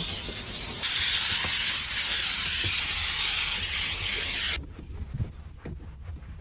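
Steady hiss of a spray, with a low rumble and faint clicks underneath; the hiss cuts off suddenly about four and a half seconds in.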